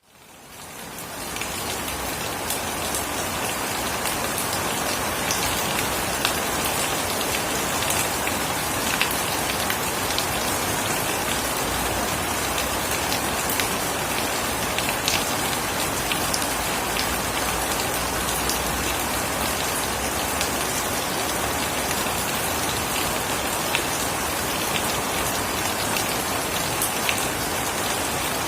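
Steady rain falling, a dense even hiss with scattered sharp taps of drops striking nearby surfaces. It fades in over the first second or so, then holds steady.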